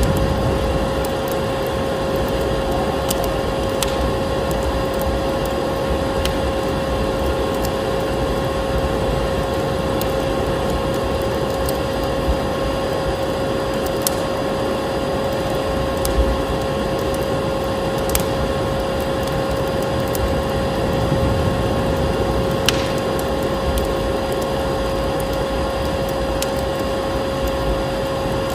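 Vacuum cleaner running steadily with a constant whine, mixed with a wood fire in a fireplace giving occasional crackles and pops.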